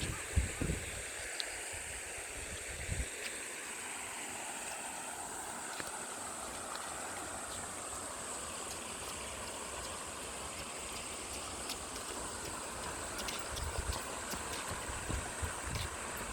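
Valley stream water flowing steadily. Wind thumps on the microphone at the start and near the end.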